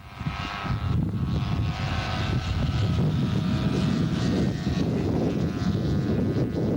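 Engines of 50 cc racing motorcycles buzzing steadily at high revs, with wind buffeting the microphone.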